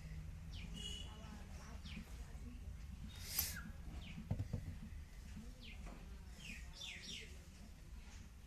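Birds chirping repeatedly in short, falling notes over a low steady hum, with a brief hissing burst a little over three seconds in and a few knocks about a second later.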